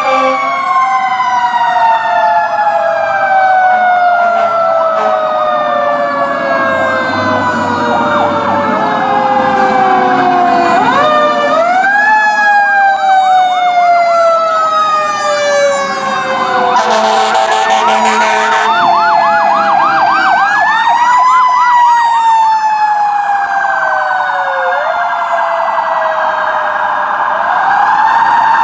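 Sirens of several responding fire trucks sounding together: long, slowly falling wails overlapping with rising wail sweeps, and a rapid yelp about two-thirds of the way through.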